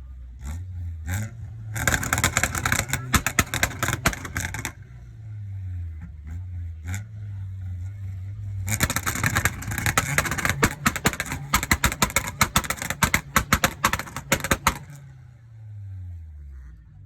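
Car engine revved up and held at high revs twice, each time with a long run of rapid, loud exhaust crackling and popping. Between and after the bursts the revs drop back.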